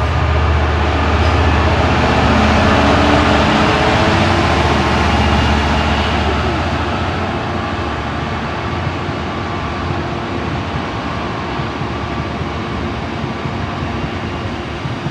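Freightliner Class 66 diesel locomotive's two-stroke V12 engine working hard under power as it hauls a freight train past, over the rumble of the rolling wagons. The engine drone is loudest in the first few seconds, then eases, leaving the steady rumble of the passing hopper wagons.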